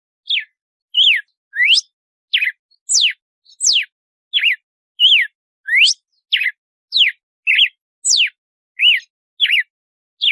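Red-cowled cardinal (galo-de-campina) singing in its 'açoite' style: a steady run of short, clear whistled notes, about three every two seconds. Some notes sweep sharply up in pitch and others sweep down, with clean gaps between them.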